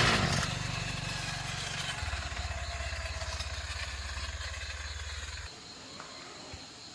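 Small motorcycle engine easing down from higher revs to a low, steady idle, then switched off, cutting out abruptly about five and a half seconds in.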